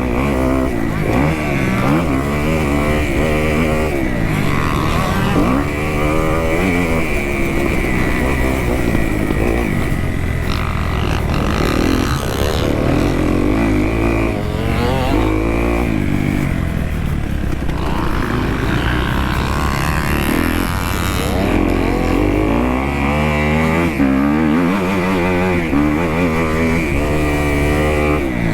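2018 Kawasaki KX250F's four-stroke single-cylinder engine revving hard while the dirt bike is ridden, its pitch climbing and dropping back over and over.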